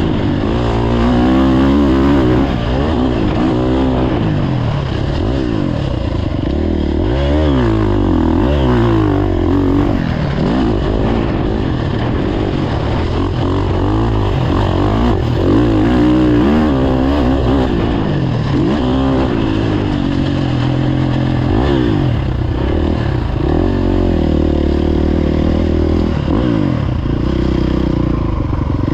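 Motocross dirt bike engine being ridden hard, its pitch rising and falling over and over as the throttle opens and closes and the gears change.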